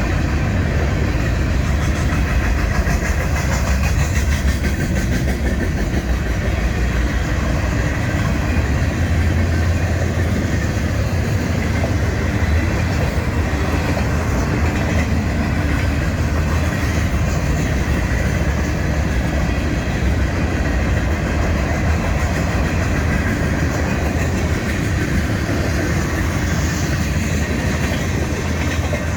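A train passing close by: a steady, loud rumble of rolling railcars that runs without a break.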